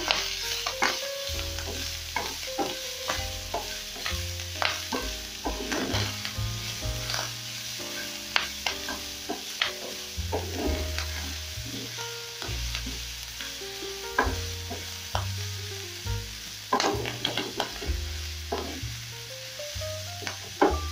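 Pieces of tripe with sliced onions and ginger sizzling in hot oil in a frying pan, stirred with a wooden spatula that scrapes and knocks against the pan many times.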